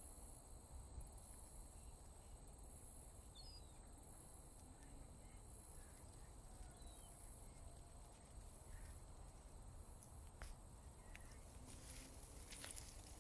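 Faint outdoor ambience: insects trilling high in even pulses about once a second, over a low rumble of wind. A few faint bird chirps, and some sharp clicks near the end.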